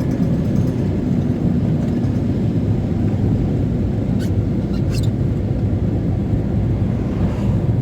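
Camper van driving: steady low engine and road rumble heard from inside the cab, with a couple of faint light ticks about four and five seconds in.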